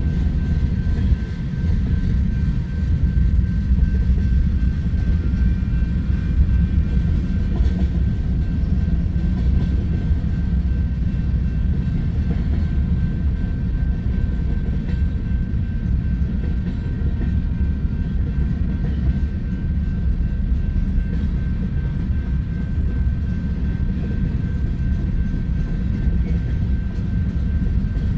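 Freight cars of a long train rolling past at steady speed: a continuous low rumble of steel wheels on the rails, with a faint steady high whine.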